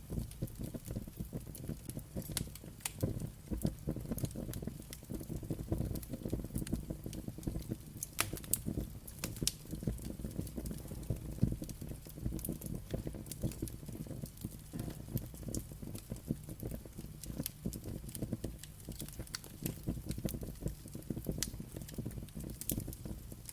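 Wood fire burning, with a steady low rumble and irregular crackles and sharp pops throughout.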